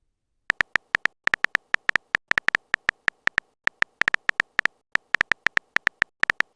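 A rapid, irregular string of very short, identical electronic beeps, all at one high pitch, starting about half a second in.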